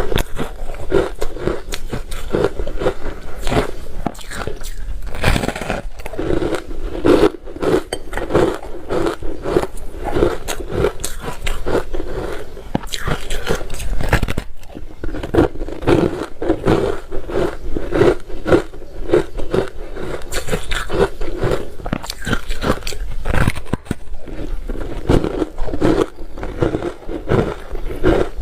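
Close-miked biting and chewing of crunchy ice, a dense run of crunches one after another.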